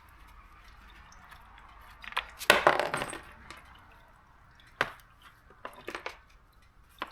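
Light metallic clinks and clatter of tools and small parts being handled. The loudest is a rustling clatter about two and a half seconds in, followed by a few sharp single clinks.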